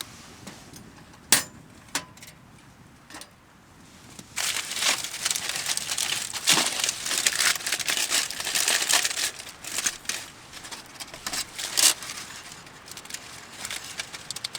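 Close crinkling and crumpling handling noise, dense for several seconds after a few sharp clicks, then tapering into scattered clicks.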